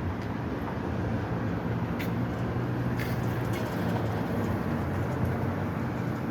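Steady road-traffic noise with a low engine hum, and a couple of faint ticks about two and three seconds in.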